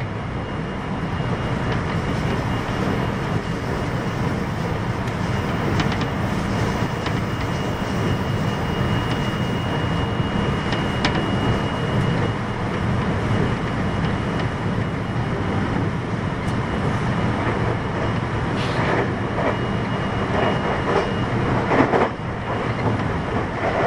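Cabin running noise of a JR West 521 series 0 electric train with a Toshiba IGBT VVVF inverter, travelling between stations: a steady rumble of wheels on the rails, with a thin high whine held at one pitch that stops near the end.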